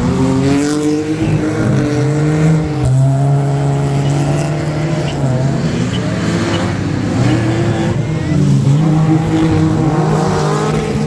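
Drift cars' engines revving hard, the pitch rising and falling again and again as they work the throttle through the slides.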